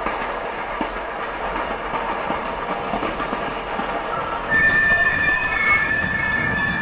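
Recorded train sound effect: a passenger train running on the rails with a clickety-clack. About four and a half seconds in, a high steady metal squeal sets in and the sound gets louder.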